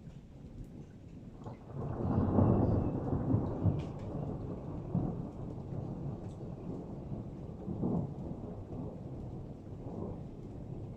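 Thunder from an intense thunderstorm: a low rumble swells about two seconds in, is loudest for the next couple of seconds, then rolls on with smaller swells later, over a steady hiss of rain.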